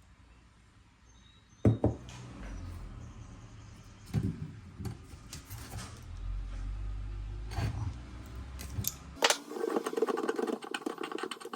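Scattered knocks and clicks of hard parts being handled, over a low rumble; about nine seconds in the rumble stops and a denser run of rapid clicking and rattling begins.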